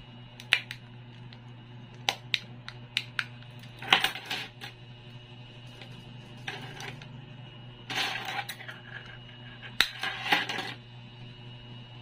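Handling of a car key and key fob: a few separate sharp clicks, then short bursts of light metallic and plastic clatter.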